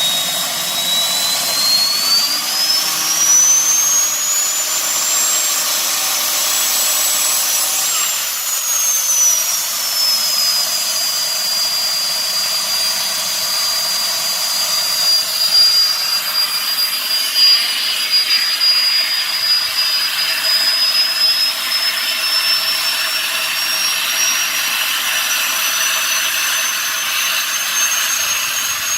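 Home-made gas turbine engine running: a high turbine whine over a steady jet-like rush. The whine climbs sharply in pitch as the engine spools up a couple of seconds in, drops back at around ten seconds, holds steady, then slowly climbs again in the last third.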